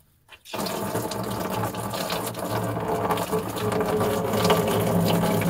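Old engine coolant pouring from a just-opened radiator petcock into a bucket, starting suddenly about half a second in and running as a steady stream.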